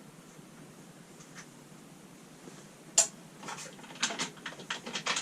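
Low room tone, then one sharp metallic click about three seconds in and a quick run of lighter, uneven clicks and clinks near the end: hand tools and bolts being handled while a lawnmower's panel is unbolted.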